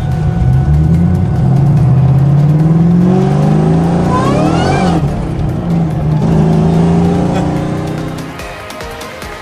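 2003 Mustang Cobra's supercharged 4.6-litre V8 accelerating, heard from inside the cabin: the engine note and a high supercharger whine climb together, drop at a gear change about five seconds in, then climb again before fading near the end.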